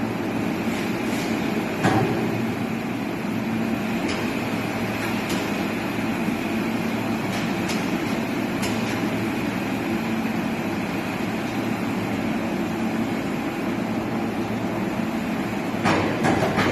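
Heavy machinery running steadily, with a few sharp knocks through it and a burst of clattering near the end.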